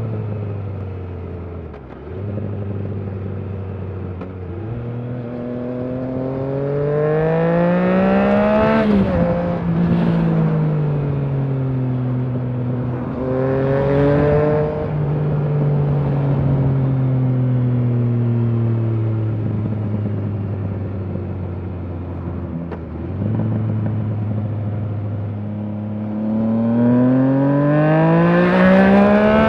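Triumph Trident 660's inline three-cylinder engine through a Leo Vince aftermarket exhaust, pulling through the revs and backing off. It rises in pitch to a peak about nine seconds in, then drops, rises again briefly around fourteen seconds, and falls slowly for several seconds. It settles low and climbs again near the end.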